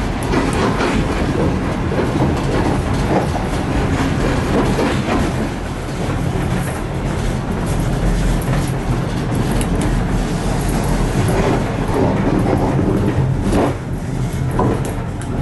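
Passenger train running along the track: a steady rumble with scattered clicks of the wheels over the rails.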